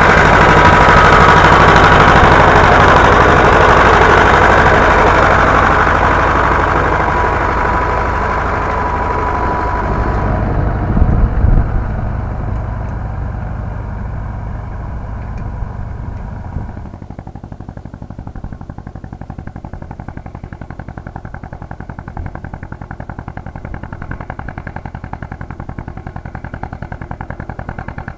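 Władimirec T-25 tractor's two-cylinder air-cooled diesel engine running under ploughing load. It slowly fades, drops sharply about two-thirds of the way through, and then goes on as a quieter, even putter.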